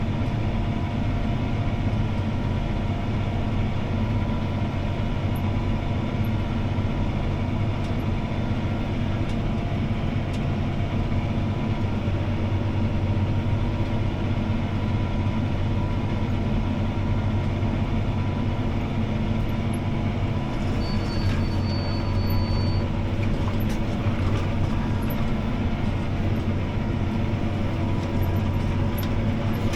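CLAAS ARION 650 tractor's six-cylinder diesel engine running steadily under load while it pulls a disc harrow, heard from inside the cab. A brief high steady tone sounds for about two seconds about two-thirds of the way through.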